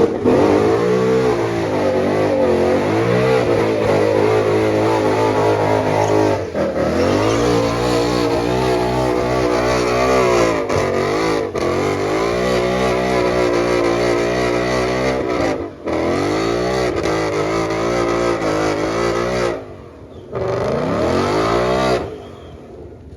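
Car engine revving and accelerating hard, its pitch climbing and falling again and again, with a few brief breaks; it cuts off near the end.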